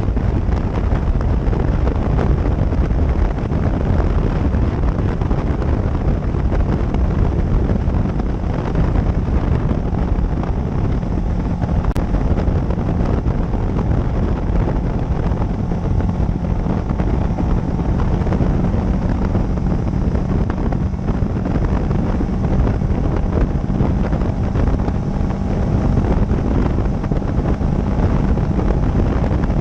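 Wind rushing over the microphone of a motorcycle-mounted camera, over the motorcycle's engine and road noise while riding. A steady engine hum comes up out of the noise about a third of the way in and holds.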